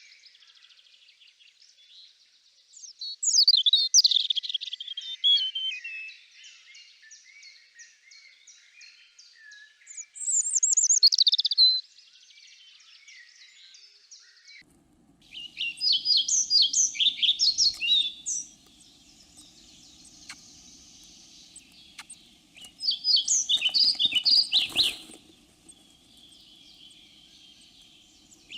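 Birds singing. A loud song phrase of two to three seconds comes back about every six seconds over fainter chirping from other birds. A faint low hum comes in about halfway through, and a single short knock sounds near the end.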